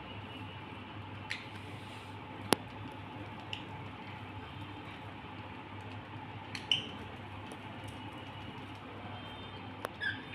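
Steady hum of an electric fan running, with a few short budgerigar chirps and one sharp click about two and a half seconds in.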